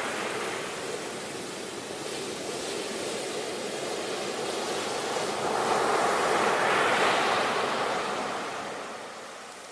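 Ocean surf: a steady wash of waves, one swelling to a peak about two-thirds of the way through and then ebbing away.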